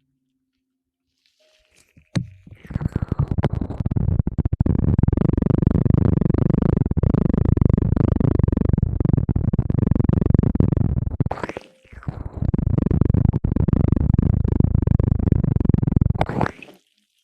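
Close, loud crackly rubbing and scratching right on the microphone, ASMR-style, in two long stretches with a brief break partway through.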